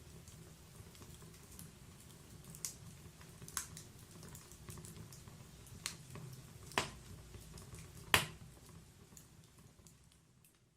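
Wood logs burning in a fireplace: a steady low rumble of flames with sharp crackles and pops, the loudest about eight seconds in. The sound fades away near the end.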